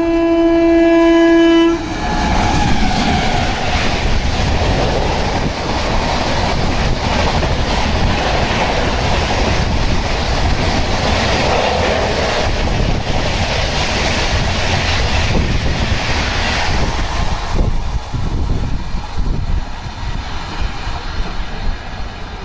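An express train's locomotive horn sounds a loud steady note that cuts off about two seconds in, then the train runs through the station at high speed with a dense rumble and wheel clatter. The noise drops and thins out about 17 seconds in as the last coaches pass.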